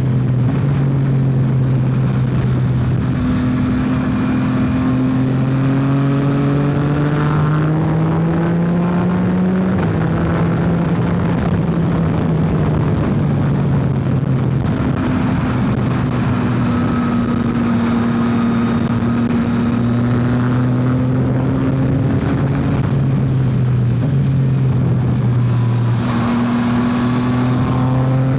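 Yamaha XSR900's inline three-cylinder engine pulling hard while riding at speed, its pitch climbing steadily and then dropping abruptly about ten seconds in and again near the end as it shifts up a gear, over steady wind and road noise.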